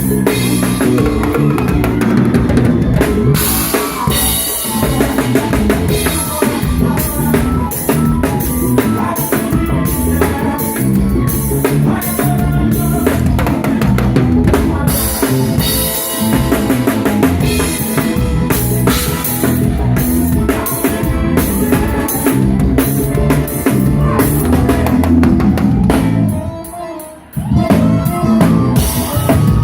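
A drum kit plays with a band, keeping a steady beat of bass drum and snare under the pitched instruments. Near the end the music drops out for about a second, then the drums come back in.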